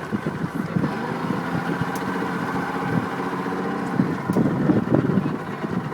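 Boat engine idling steadily, a low rumble with a steady hum.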